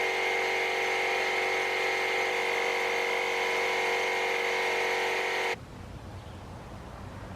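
A steady buzzing hum made of several fixed tones that cuts off suddenly about five and a half seconds in, leaving only faint background noise.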